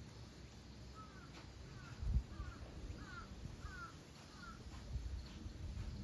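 A bird calling six times in a row, each call a short note falling in pitch, over a low rumble with one dull thump about two seconds in.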